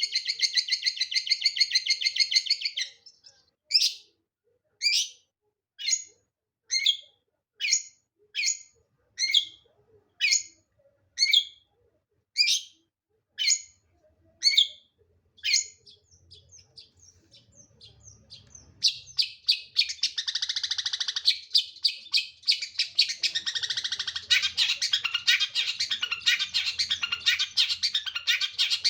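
Long-tailed shrike (pentet) singing: a fast trill at first, then a run of about a dozen short sharp calls roughly one a second, and from about two-thirds of the way through a long, dense chattering song.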